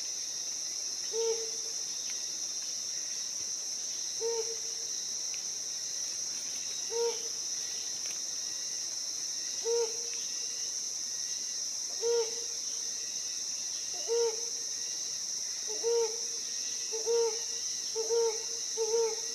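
Helmeted hornbill giving its hooting call: single hoots spaced a few seconds apart that speed up toward the end into a quickening series. A steady high-pitched drone of insects continues underneath.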